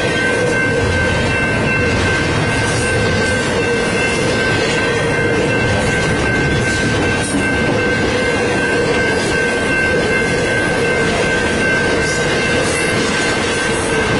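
Train rolling past, a loud steady rumble of wheels on rail with a thin steady high whine over it.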